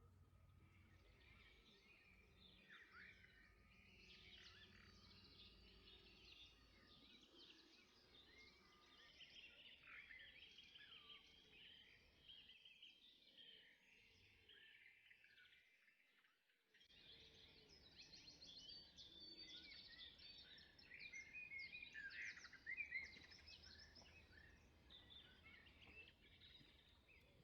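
Faint birdsong: many small birds chirping and twittering over a low background rumble, dipping away briefly a little past halfway through.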